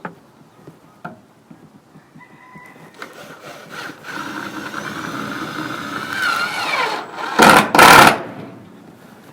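Power saw running and cutting through plywood. Its pitch drops under load about six seconds in, followed by two loud bursts near the end.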